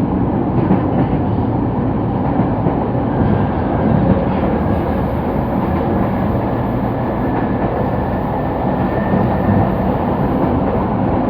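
Sotetsu Line commuter train running on the track, heard from inside the car: a steady rumble of wheels and running gear. From about three seconds in, a faint high whine rises slightly and fades near the end.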